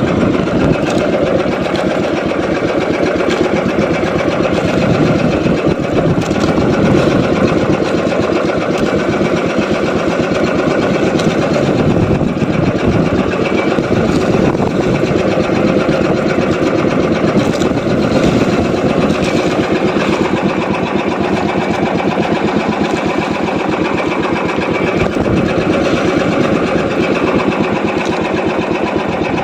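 Small boat engine running steadily at a constant speed with a fast, even chugging, heard from on board.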